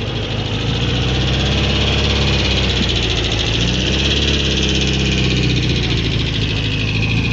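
A car's engine running as the car pulls away, its revs rising slightly about halfway through.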